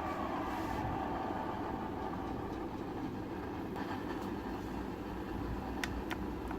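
Radio-controlled model truck running, a steady rumble with a falling whine that fades about a second in and a few sharp clicks near the end.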